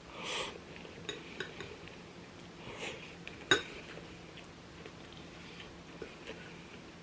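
Eating sounds: utensils clicking and clinking against a bowl or plate, with a few soft noisy bursts of chewing or slurping. A single sharp clink about three and a half seconds in is the loudest sound.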